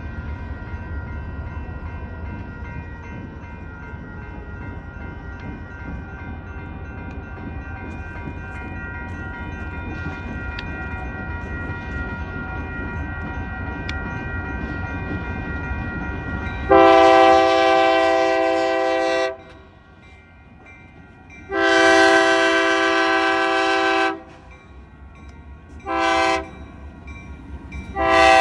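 Diesel freight locomotive rumbling on the track, slowly growing louder, then its multi-tone air horn sounding the grade-crossing signal: two long blasts, a short one, and a final long one that begins near the end.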